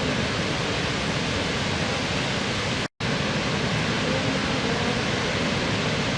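Waterfall: a steady rush of falling water, broken by a momentary dropout to silence about three seconds in.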